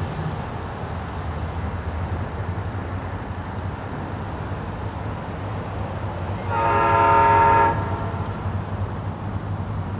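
Diesel freight train running with a steady low rumble, and a locomotive air horn sounding one chord blast of about a second, a little past halfway.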